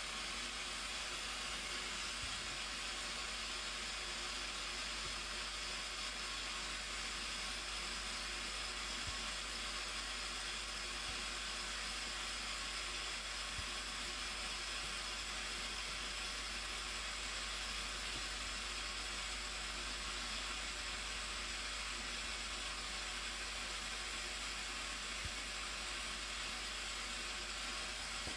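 Waterfall: the Blue Nile Falls pouring down, a steady, even rushing hiss that never changes.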